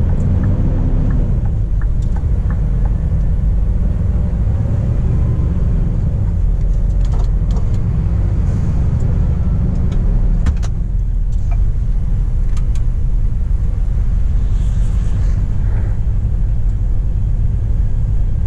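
Scania P420 truck's diesel engine running steadily as the truck drives off, a continuous low drone. A few faint clicks or knocks come through it around the middle.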